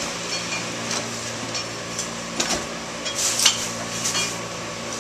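Machinery running with a steady hum, with scattered clicks and rattles about halfway through.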